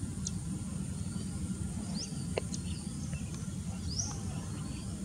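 Small birds calling at intervals: short high chirps and quick upward-sliding whistles, with a few sharp ticks, over a steady low rumble.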